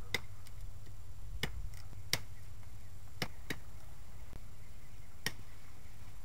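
A handful of sharp, irregular clicks or snaps, spaced unevenly a second or more apart, over a steady low rumble.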